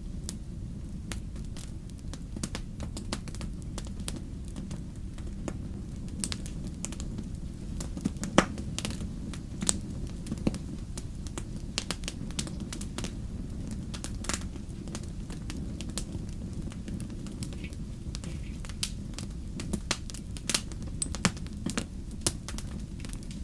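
Fire burning in a fireplace: irregular crackles and sharp pops over a steady low rumble of flame, with one louder pop about eight seconds in.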